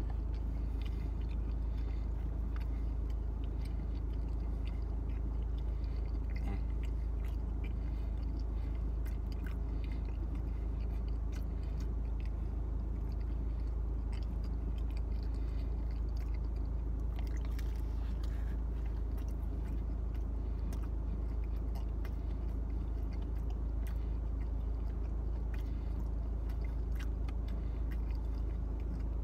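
A man chewing and biting pizza close to the microphone, with scattered small wet mouth clicks, over a steady low rumble in the car cabin.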